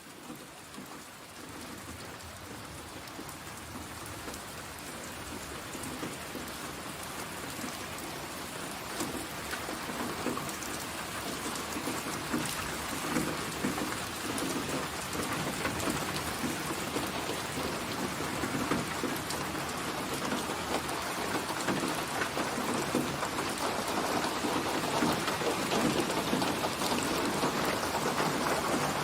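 Steady rain falling, with a dense patter of drops. It grows gradually louder throughout.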